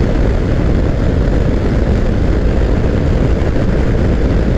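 Kawasaki Versys X300's parallel-twin engine running steadily at cruising speed, under a loud, even rush of wind noise on the microphone.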